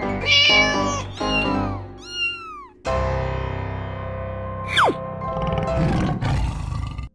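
Cartoon soundtrack: music with sound effects, a string of short notes, then a few swooping calls that fall in pitch, a held chord starting suddenly about three seconds in, and a quick rising whistle-like swoop near five seconds.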